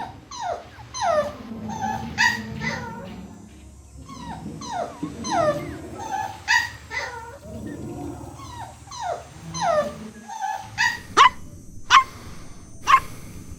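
Puppies whining and yelping: a run of short cries that fall in pitch, then three sharp yips about a second apart near the end.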